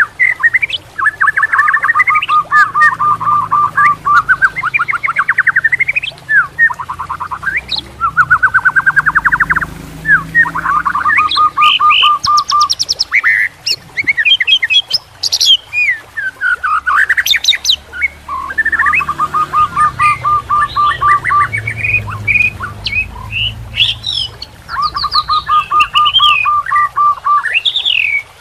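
A songbird singing continuously and loudly: fast trills of rapidly repeated notes mixed with sweeping chirps, the phrases coming again every few seconds.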